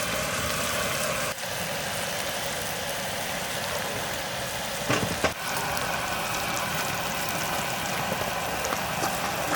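Food frying in oil in a pan, a steady sizzle, with a brief knock about five seconds in.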